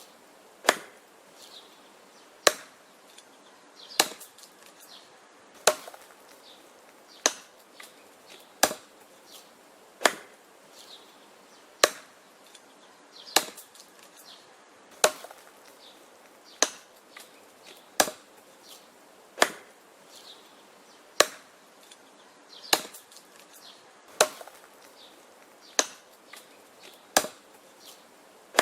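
Axe chopping wood: a sharp blow into the wood about every second and a half, at a steady, even pace.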